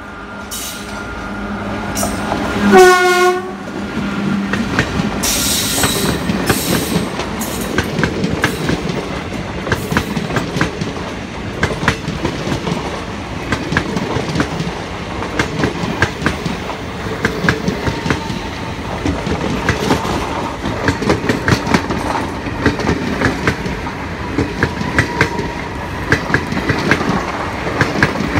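WAP-4 electric locomotive sounding its horn as it approaches, ending in a loud blast about three seconds in. The locomotive and its passenger coaches then run past close by, the wheels clicking steadily over the rail joints.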